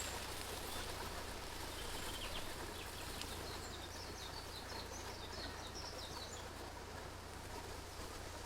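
Forest ambience: a steady outdoor hiss with small birds giving short high chirps, a run of them through the middle.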